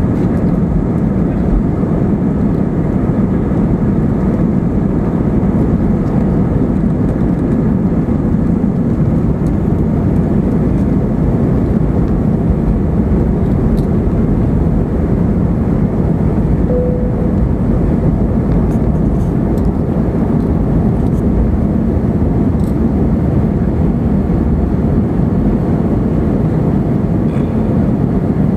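Jet airliner's engines and airflow heard inside the passenger cabin as a loud, steady roar during the takeoff and climb.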